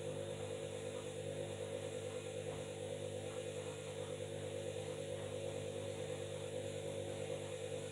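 Washing machine running at a steady speed, a constant motor hum with several steady tones.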